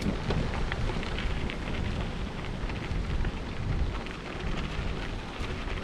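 Bicycle tyres crunching and crackling over a soft, loose trail surface, with a low rumble underneath.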